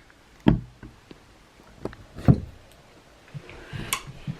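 Objects knocked and handled on a table during a meal: two dull thumps, about half a second and just over two seconds in, with a few light clicks between and after them.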